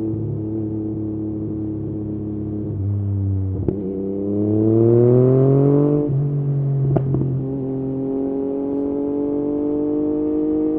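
Yamaha MT-09's three-cylinder engine running through an Akrapovič exhaust, holding a steady note, then accelerating with a rising pitch about four seconds in before settling back to a steady run. Two short sharp clicks, a few seconds apart.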